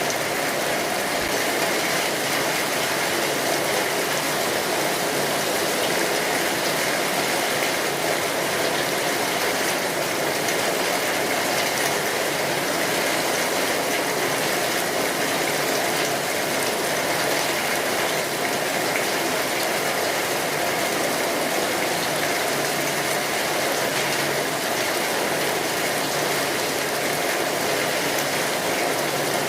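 Steady rainfall: a dense, even hiss of rain that holds at one level throughout.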